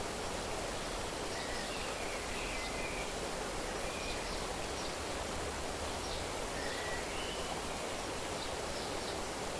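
Steady rushing of flowing water, with faint short bird chirps and whistles scattered throughout.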